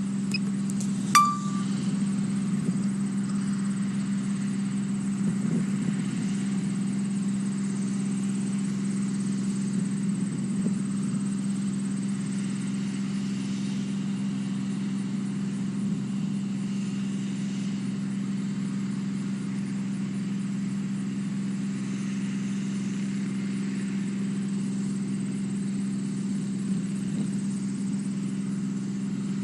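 Steady, unchanging mechanical hum, like an engine or motor running at constant speed. A short click and a brief high beep come about a second in.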